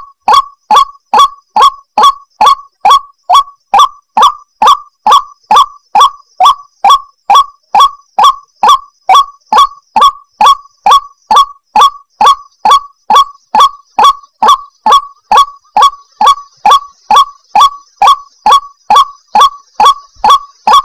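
White-breasted waterhen (ruak-ruak) calling as a lure recording: loud, short notes repeated evenly at about two and a half a second without a break.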